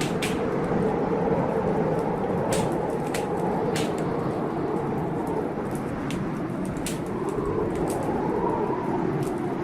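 Blizzard wind howling outside a window, a steady heavy rush that slowly wavers in pitch, with a wood fire crackling over it in scattered sharp pops.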